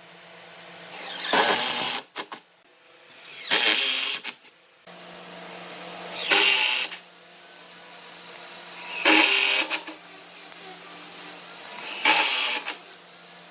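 A power tool's motor running steadily, with five loud, harsh bursts about every two to three seconds as it works the wood.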